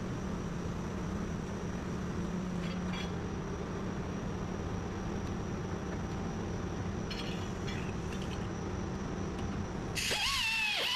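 A steady low mechanical rumble with a constant hum, and a few faint ticks. Music starts near the end.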